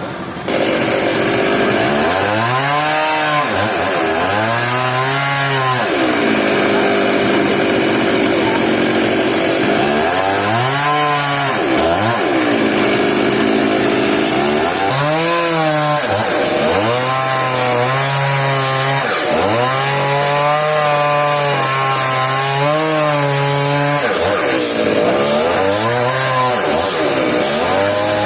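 Two-stroke chainsaw engine starting up abruptly about half a second in, then revving up and down over and over.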